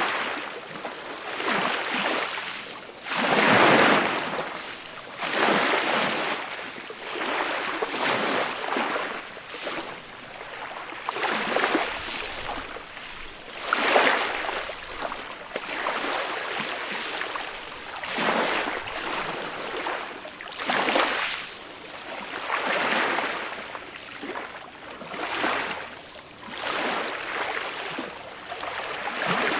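Small, gentle waves breaking and washing onto a beach, one soft surge every couple of seconds, the biggest about three seconds in and again near the middle.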